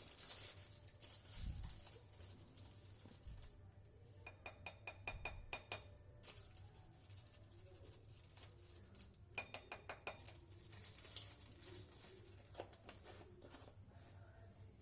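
Spoon stirring cake batter, clinking rapidly against the side of the dish in two quick runs, one about four seconds in and another near ten seconds, faint.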